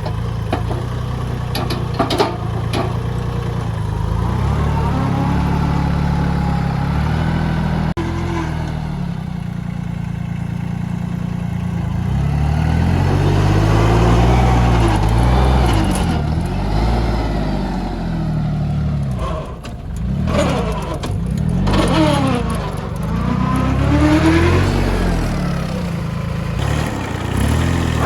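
Engine running steadily, its revs rising and falling again and again, most of all in the second half.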